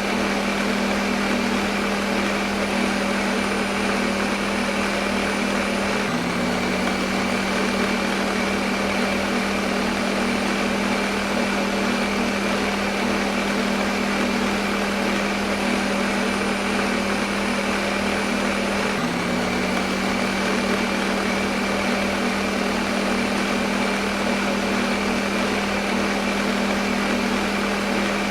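Electric blender motor running steadily at one speed: a continuous hum with a strong low tone under a broad hiss. The pitch dips briefly and recovers twice, about six seconds in and again about thirteen seconds later.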